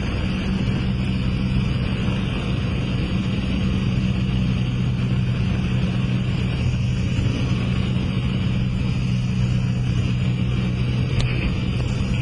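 Cessna 172SP's four-cylinder Lycoming engine and propeller running at a steady power setting, heard as a constant drone inside the cabin.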